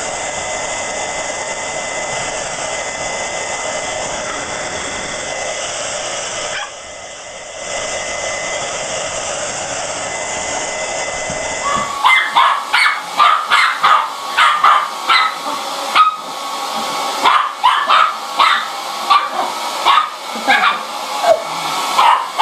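Hair dryer blowing steadily, dropping out for about a second around seven seconds in. About halfway through, the sound changes abruptly to a dog barking in quick, repeated high barks, about two a second.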